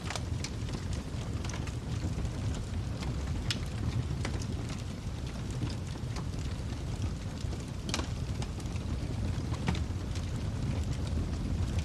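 Wood fire burning in a fireplace: a steady low roar of flames with scattered sharp crackles and pops, a few louder ones about half a second, four, eight and nearly ten seconds in.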